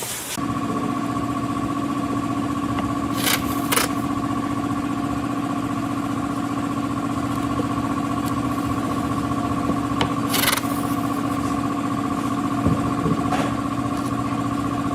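Angle grinder's electric motor running steadily at speed, a constant whine with overtones, starting about half a second in. A few short noisy bursts come a few seconds in and again about ten seconds in.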